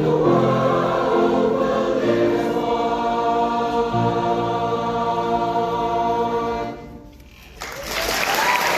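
A high school choir sings and holds a final chord, which cuts off about seven seconds in. Audience applause starts about a second later.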